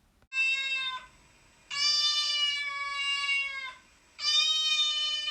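A cat meowing three times, long drawn-out meows held at a steady pitch, the second the longest.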